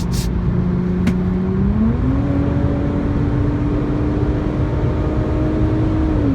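2004 Infiniti G35x's 3.5-litre V6 pulling hard, heard from inside the cabin. The engine note climbs about two seconds in, holds at the higher pitch, then falls near the end, over steady road and tyre noise.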